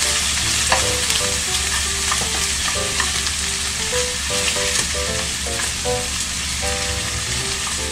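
Pork offal sizzling steadily as it fries in sesame oil in a frying pan, turned with tongs, which click now and then. A light background melody plays underneath.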